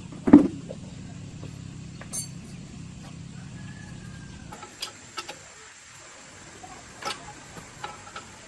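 Workshop handling noises: one heavy knock about a third of a second in, then scattered light clicks and taps.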